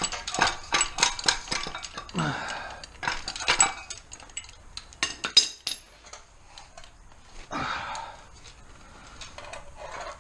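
Steel hand tools clinking and clattering against each other and against metal: a quick run of sharp clicks in the first few seconds, another cluster about five seconds in, then only scattered clicks.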